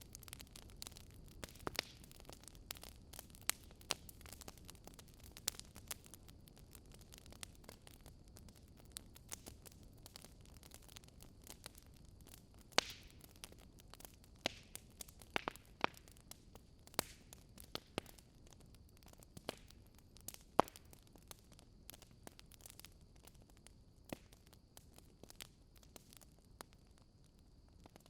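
Campfire burning: a low steady hiss of flame with irregular sharp crackles and pops of burning wood, a few of them louder than the rest.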